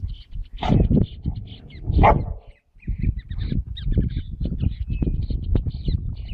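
Dog barking, with two loud barks about a second apart early on, over a constant low rumble.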